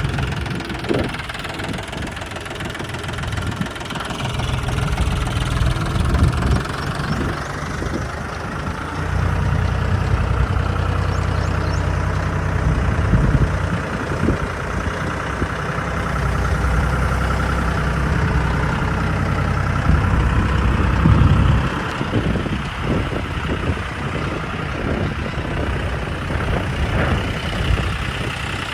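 Tractor diesel engine running, working a front loader; it gets louder and heavier about a third of the way in, then eases off about three-quarters of the way through.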